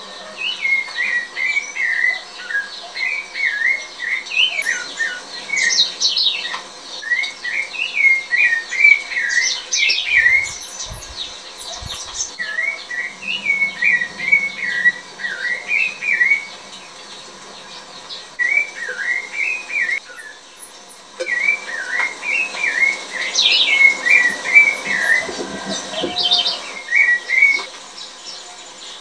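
Birdsong: warbling phrases a few seconds long, repeated about six times with short pauses between them, with quick high chirps scattered through.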